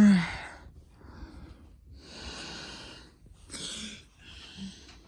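A person's breathy puffs and wheezes: a few separate hissing breaths, the first with a short voiced grunt at the start.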